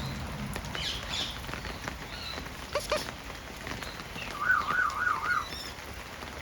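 Parrots calling: scattered short chirps and a quick double call, then a louder warbling call that wavers up and down about four times.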